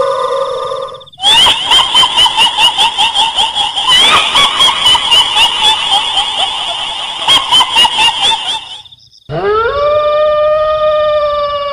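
Horror sound-effect mix: a high wail breaks off about a second in. It is followed by a long run of rapid shrill pulses, about four a second, like a kuntilanak ghost's cackling laugh. After a brief pause comes a long howl that rises and then holds steady.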